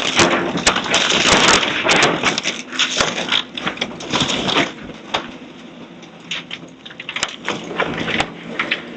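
House demolition: timber and debris cracking, splintering and crunching in quick irregular strokes, heaviest in the first half, over the steady hum of a machine's engine.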